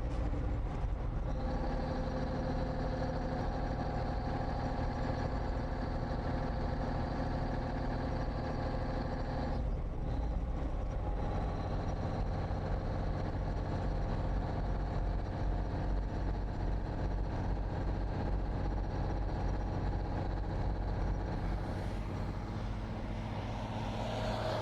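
1954 Kenworth tractor's naturally aspirated Cummins 220 inline-six diesel running steadily under load as it pulls a grade with no trailer. The note breaks off briefly about ten seconds in and then picks up again.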